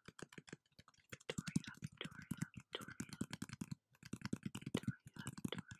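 Rapid tapping close to the microphone, about eight to ten quick taps a second in runs, with brief pauses about a second in and just before four seconds.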